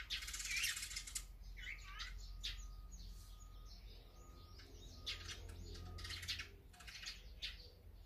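Wild birds calling: a run of short chirps and sweeping notes, with harsher, buzzy calls clustering in the first second and again about five to six and a half seconds in.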